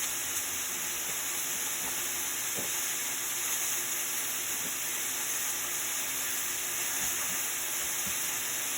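Food frying in oil in a pan, with a steady sizzle and a few faint ticks.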